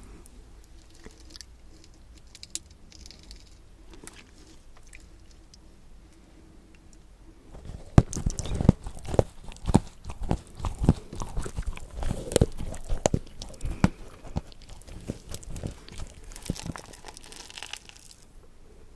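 Close-miked eating: a person biting and chewing crisp food, with faint mouth clicks at first, then dense, sharp crunching from about eight seconds in that eases into softer chewing near the end.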